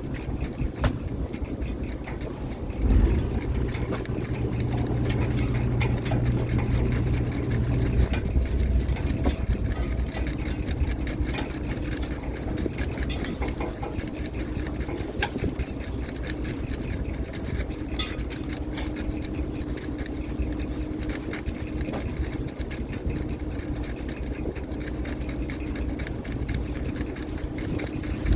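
Fishing boat's engine running steadily with a low hum, under many light clicks and rattles, with a louder knock about three seconds in.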